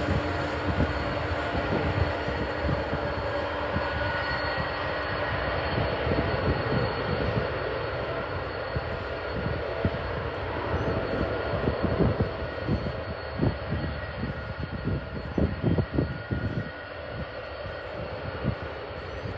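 Jet airliner engines running with a steady roar and a faint high whine, easing off slightly in the last few seconds. Wind buffets the microphone in gusts, more often in the second half.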